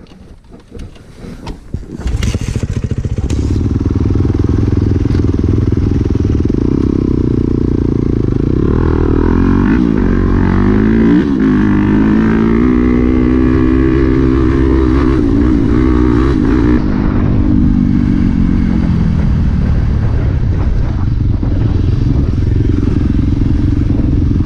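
Dirt bike engine, loud and close, picking up after a couple of quiet seconds and then running hard under riding, its pitch rising and falling as the bike accelerates and shifts.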